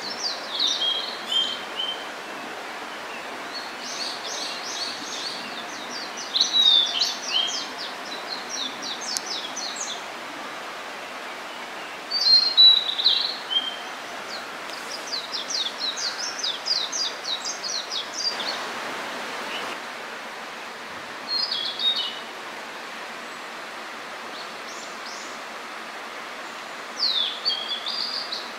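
Blue-and-white flycatcher singing: about six phrases of quick, high whistled and chattering notes separated by pauses, over a steady background hiss.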